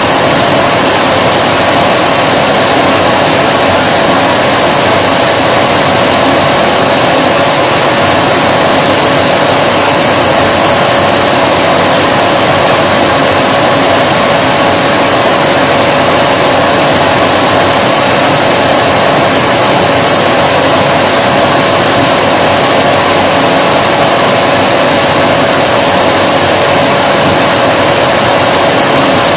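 Vacuum cleaner running steadily: a loud, even rush of air with a steady hum and a high whine in it.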